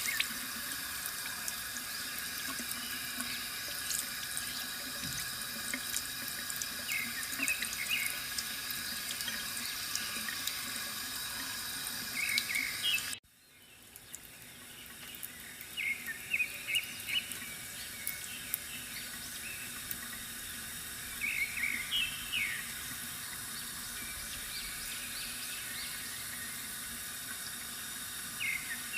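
Bamboo water fountain: water trickles and splashes steadily from the spout, with short clusters of bird chirps every few seconds. About halfway through, the sound cuts out suddenly and fades back in over about a second.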